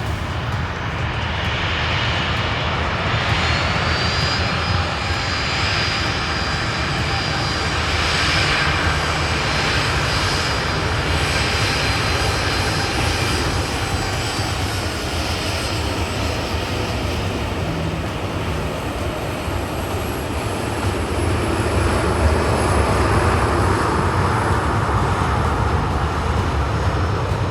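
Jet engines of a Boeing 737-800 (CFM56-7B turbofans) running with a steady, loud rush. A high whine rises in pitch a few seconds in, and the noise swells again in the last few seconds.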